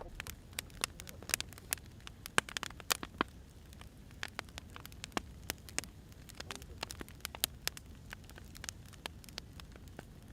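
Firewood burning, crackling with irregular sharp pops and snaps over a low, steady rumble of the fire.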